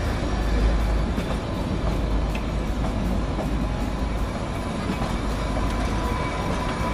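Kalka–Shimla narrow-gauge toy train coaches rolling slowly past close by: a steady rumble of wheels on the rails.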